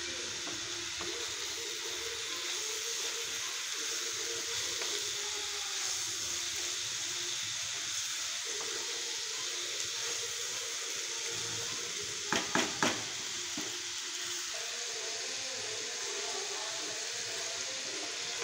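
Cabbage and potatoes frying in oil in a kadhai, a steady sizzling hiss as they are stirred. About two-thirds of the way through, three quick knocks.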